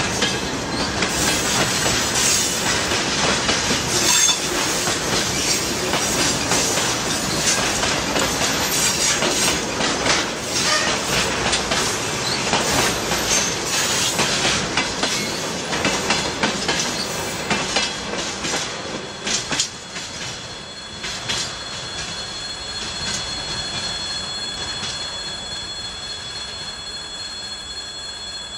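Freight wagons, tank cars and boxcars, rolling past close by, their wheels clattering and screeching on the rails. About twenty seconds in the clatter eases, and a steady high wheel squeal carries on.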